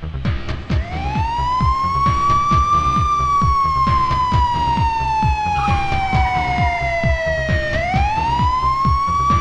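A siren wailing over electronic music with a fast, steady beat. It rises in pitch about a second in, falls slowly for several seconds, then rises again near the end.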